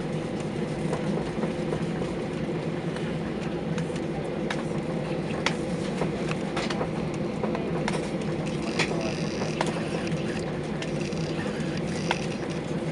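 Steady cabin noise inside a Ryanair Boeing 737-800 on the ground: an even jet-engine hum and rumble, with scattered sharp clicks and rattles.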